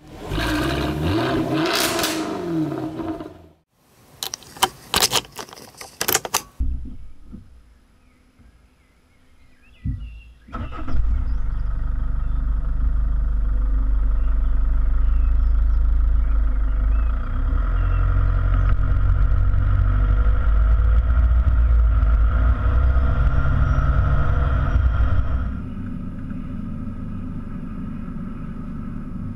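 A short intro sound effect with sweeping tones, then a few sharp clicks. About ten seconds in, the Opel Antara's 2.2 CDTI four-cylinder turbodiesel starts and runs with a loud, steady low rumble. Near the end it drops to a quieter, steady idle.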